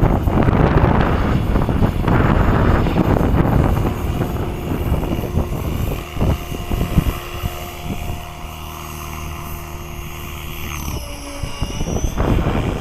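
Wind buffeting the microphone for the first few seconds, then a 550-size electric RC helicopter's rotor and motor heard as a steady hum with a higher whine, the pitch dipping slightly near the end.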